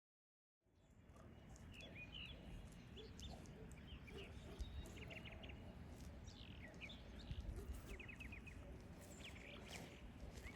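Small birds chirping, short high chirps, some in quick runs of several, over a steady low rumble. The sound fades in after a brief silence at the start.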